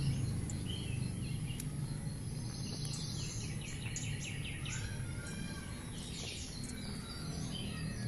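Wild birds chirping and calling, with a quick run of chirps about halfway through, over a steady low background rumble.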